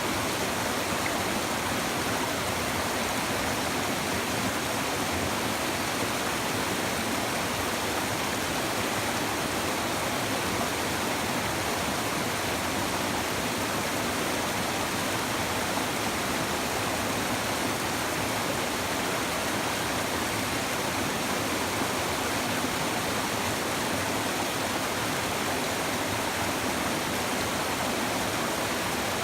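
Shallow stream babbling over stones, a steady rushing and gurgling of water with no change.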